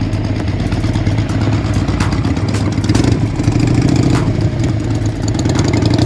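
A car engine idling with a steady low pulse, swelling briefly about halfway through and again near the end.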